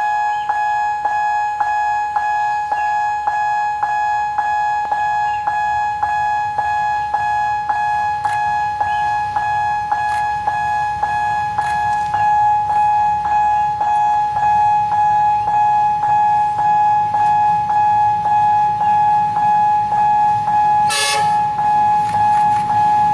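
Railway level-crossing warning bell ringing at an even rhythm of nearly two strokes a second, while a low rumble of an approaching train grows louder from about halfway. Near the end, a brief loud horn blast.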